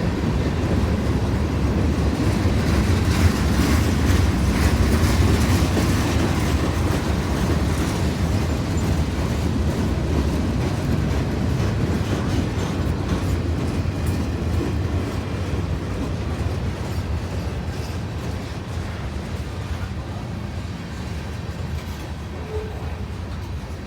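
Freight train cars rolling past, a steady rumble of wheels on rail with fine clicking from the joints that slowly fades toward the end as the train moves off.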